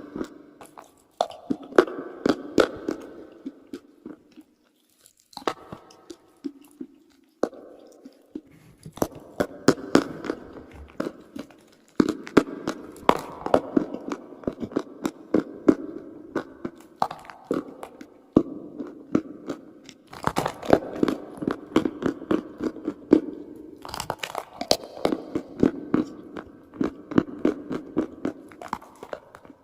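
Dry chalk being bitten and chewed: dense, crackling crunches in quick succession, with two brief pauses early on before the crunching picks up again.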